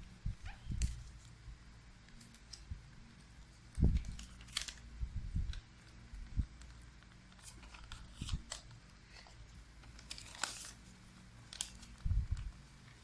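A square sheet of origami paper being folded and creased by hand, its pocket opened and flattened into a diamond shape: scattered short paper rustles and crinkles, with a few soft thumps.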